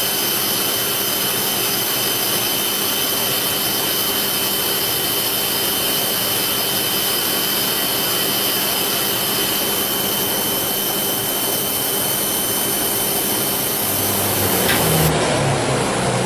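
Citizen-Cincom Swiss-type CNC lathe machining a bone screw with Low Frequency Vibration cutting: a steady machine and coolant hiss with a thin high whine. The sound changes abruptly near the end.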